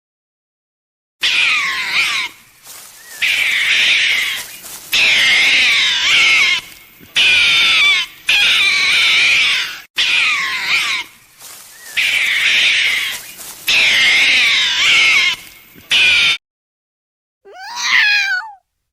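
An animal calling loudly over and over, each call high-pitched and wavering and lasting a second or two, with short breaks between them. After a pause, a single shorter call falls in pitch near the end.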